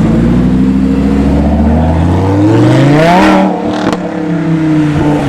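A car's engine accelerating hard, its pitch climbing steadily for about three seconds, then falling sharply a little past three seconds in and running on lower.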